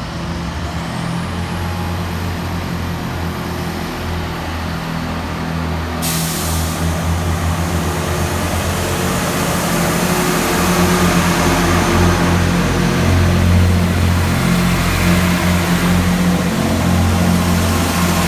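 Diesel engines of a Class 166 diesel multiple unit running with a deep, pulsing throb that grows louder. A steady hiss comes in suddenly about six seconds in.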